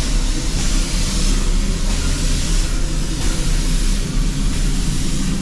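Baldwin 4-6-0 narrow-gauge steam locomotive No. 18 running, a steady loud rumble with no distinct strokes standing out.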